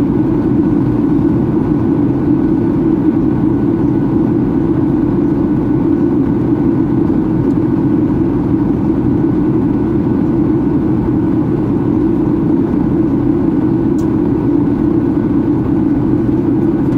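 Steady cabin noise inside a Boeing 737-800 in descent: the hum of its CFM56-7B engines blended with the rush of air along the fuselage, unchanging throughout.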